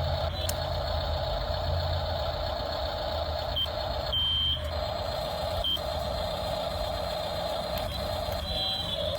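Small electric motor and plastic gears of a toy RC truck whining steadily, cutting out briefly several times, with a few short high beeps.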